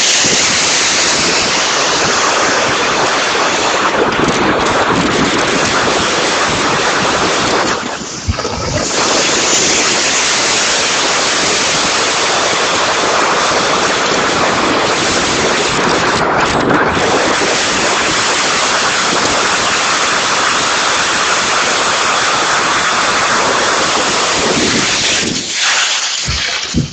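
Typhoon wind and heavy rain buffeting the microphone: a loud, dense, steady rush of noise that dips briefly about eight seconds in and falls away just before the end.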